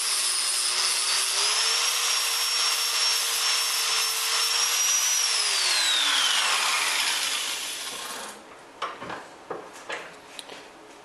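Angle grinder with a flap disc grinding down a small metal tightening nut, its whine dipping briefly under load, then switched off and winding down in pitch over about two seconds. A few light knocks follow near the end.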